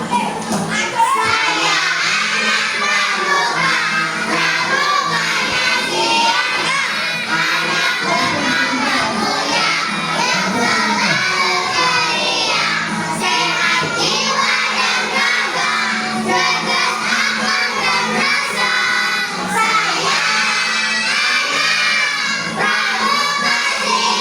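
A class of young children singing loudly together over recorded backing music.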